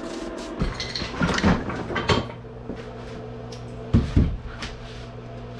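Chunks of firewood being tossed onto a pile, knocking wood on wood several times: a cluster in the first two seconds and a double knock near the end. A steady low hum runs underneath.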